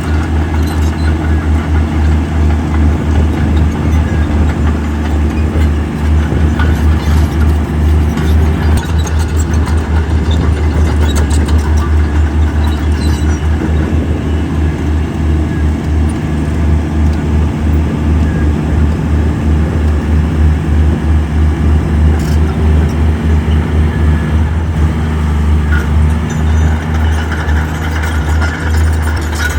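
Heavy diesel engine of earthmoving machinery running steadily under load, with a deep pulsing drone and a few short knocks along the way.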